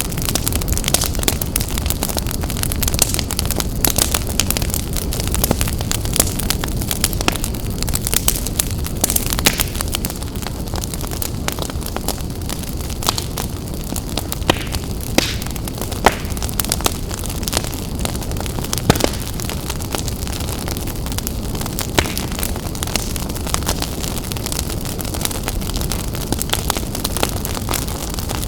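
Wood fire burning in a fireplace: a steady low rumble of flames with frequent sharp crackles and pops, and a handful of louder snaps scattered through.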